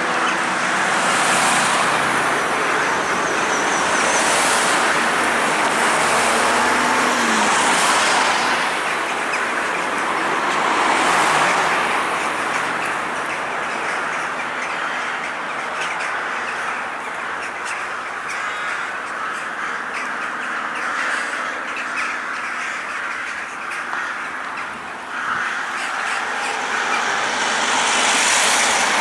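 A large flock of birds gathering to roost, many calling at once in a continuous chatter, with traffic noise underneath.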